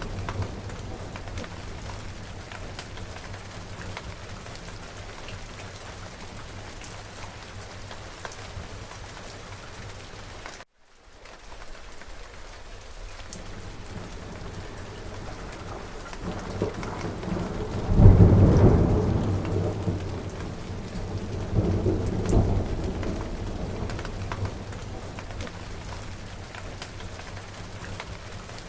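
Steady rain falling, with a low thunder rumble that builds past the middle to a loud peak, swells once more and fades. The rain cuts out for a moment a little over a third of the way in.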